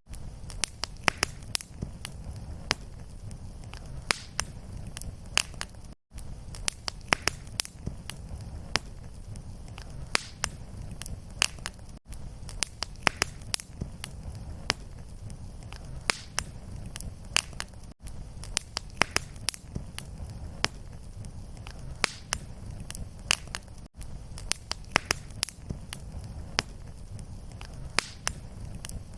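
Wood fire crackling in a fireplace: frequent sharp pops and snaps over a steady low rumble of flame. A short recording looped, with a brief dropout about every six seconds where it restarts.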